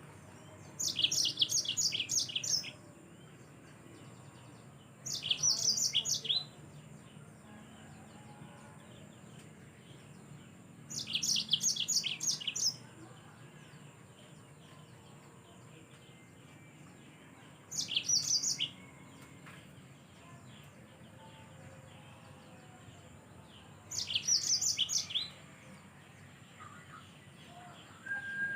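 Yellow-fronted canary (Mozambique siskin) singing: short, high, quick twittering phrases of about a second and a half each, repeated five times with pauses of several seconds between them.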